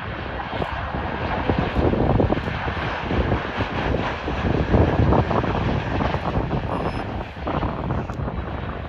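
Jet engines of an Airbus A320-family airliner arriving, a loud rough roar that swells to a peak about halfway through and then eases, with wind rumbling on the microphone.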